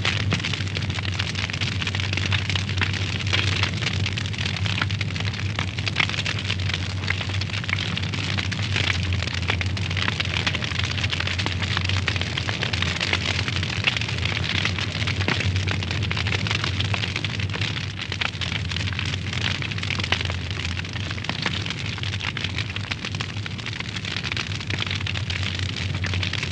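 Wood fire burning in a fireplace, crackling with a steady stream of small pops and snaps over a continuous hiss, with a steady low rumble beneath.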